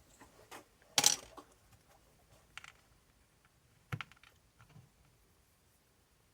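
Small RC shock parts being handled on a workbench: a few separate light clicks and knocks, the loudest about a second in.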